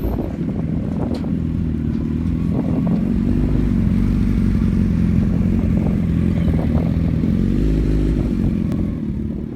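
A vehicle motor running close by: a steady low hum that rises slightly in pitch a couple of times, with a few light knocks over it.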